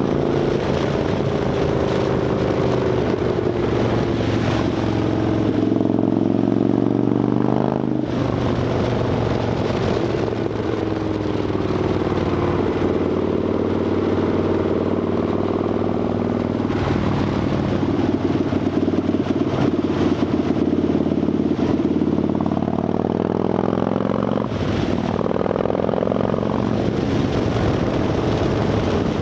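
Harley-Davidson Dyna Fat Bob's V-twin engine running through Vance & Hines Shortshots exhaust with quiet baffles, its revs rising and falling, with brief breaks about eight seconds in and near the end.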